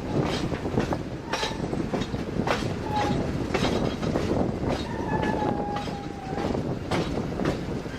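Passenger train running on jointed track: a steady rumble with irregular clacks of the wheels over rail joints. A few brief high squeals come through, the longest about five seconds in.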